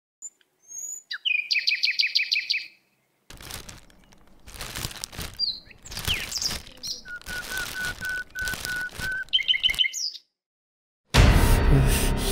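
Small birds chirping: a short, rapid trill about a second in and another near the end, and in the middle a run of quick, even notes on one pitch. Light background noise with small clicks lies under the calls.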